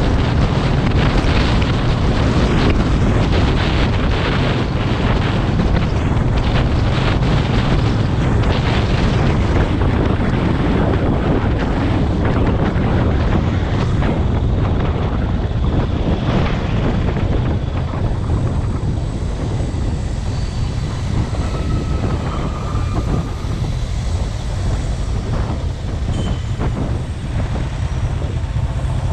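Wind buffeting the microphone of a moving motorcycle, with the motorcycle running underneath; the rush eases a little in the second half.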